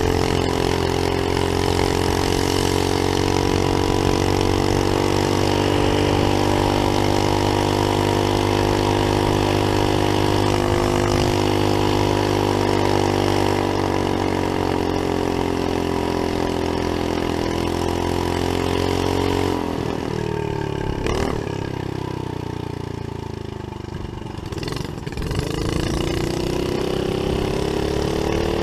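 Small single-cylinder Briggs & Stratton engine of a homemade trike mini bike running steadily at a high, even speed. About two-thirds of the way through the throttle comes off and the pitch drops, and near the end it climbs again as the engine revs back up.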